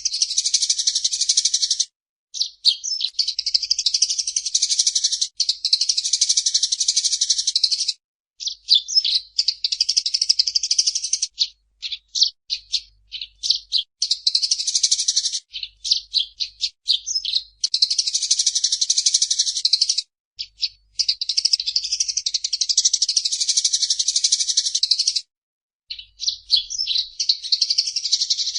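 Eurasian tree sparrow chattering: dense, high runs of rapid chirps a few seconds long that stop abruptly, with stretches of separate chirps in between.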